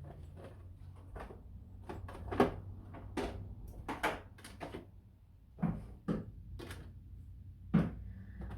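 Condiment and salad-dressing bottles knocking and clinking as they are lifted out of a refrigerator's door shelves and set down: a string of short knocks, the loudest about two and a half seconds in.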